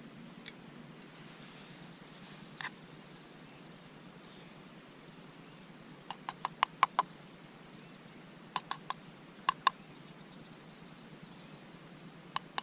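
A bird calling in bursts of short, sharp, clicking notes, a quick run of about six about halfway through, then shorter groups of two or three.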